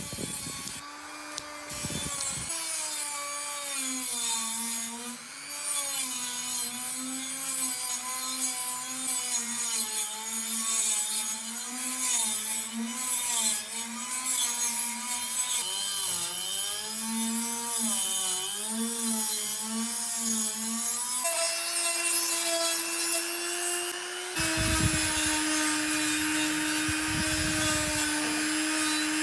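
A small electric power tool running continuously with a hiss of abrasion. Its motor pitch dips and wavers under load, then runs steadier and a little higher in the last third.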